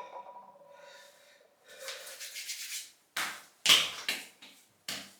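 A short hiss, then hands slapping aftershave splash onto the face: four sharp slaps in the second half, the second the loudest.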